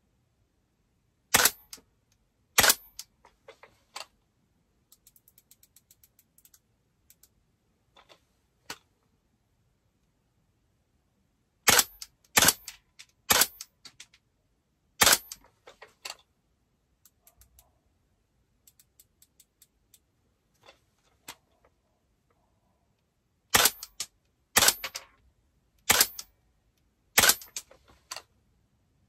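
An airsoft rifle, a DAS GDR416, fired in single shots: about ten sharp cracks in groups of two to four, with pauses between the groups. In the pauses, runs of faint, quick clicks come from the scope's adjustment turret being turned while the scope is zeroed.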